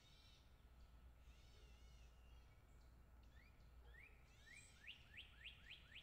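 Faint bird calls: a few arched chirps in the first two seconds, then a quick run of five or six rising chirps near the end, over a low steady rumble.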